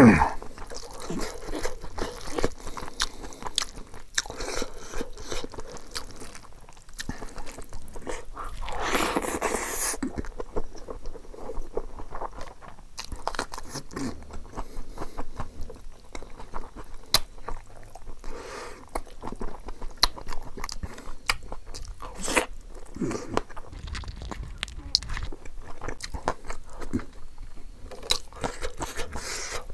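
Close-up eating sounds: chewing, biting and wet mouth noises as curry and rice are eaten by hand, with many small clicks and crunches, and a longer rushing noise about nine seconds in.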